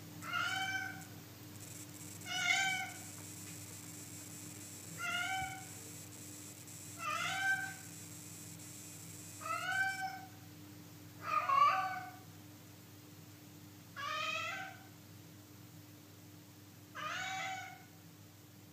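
Domestic cat meowing over and over: eight drawn-out meows, each under a second, coming every two to three seconds, one a little past the middle louder than the rest.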